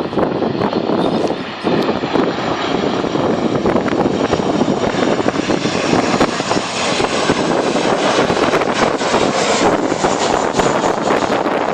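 Jet airliner's engines on final approach to landing, a loud steady rumble. A higher hiss grows stronger about halfway through as the aircraft comes closer.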